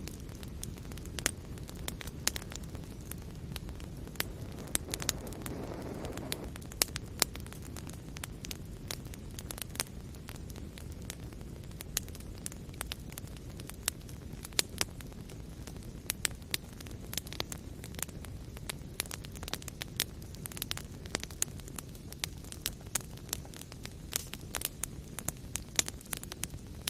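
Fireplace fire crackling, with frequent irregular sharp pops and snaps over a steady low rumble of flames. A brief swell in the flame rumble comes about five seconds in.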